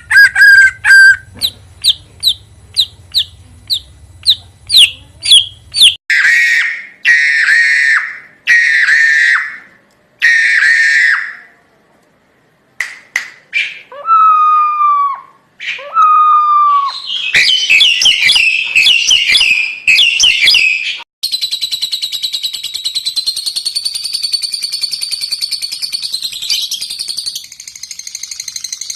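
Bird calls and songs spliced together with abrupt changes. First comes a series of short rising whistles, then harsh buzzy calls, a few slurred whistles, fast dense chatter, and finally a long continuous high buzzing trill.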